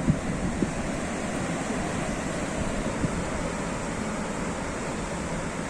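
Sea waves washing onto the shore: a steady rushing wash of surf, with a few brief low thumps.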